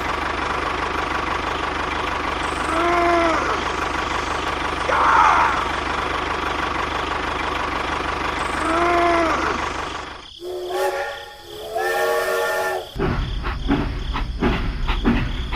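Miniature train running steadily, its whistle tooting briefly twice about six seconds apart, with a short hiss between the toots. Near the end, a few seconds of stepped, horn-like notes sound while the low running hum drops away.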